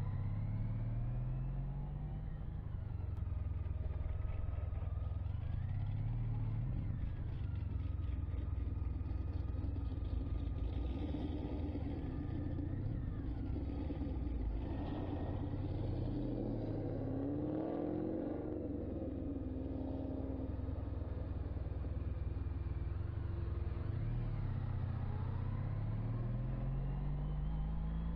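Can-Am Ryker Rally's three-cylinder engine running while riding, its revs rising and falling again and again as it pulls away and eases off.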